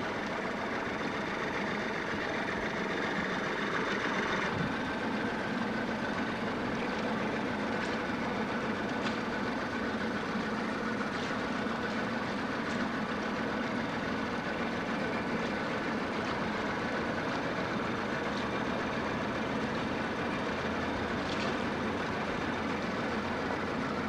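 A boat's engine running steadily, with a constant hum and rush of noise.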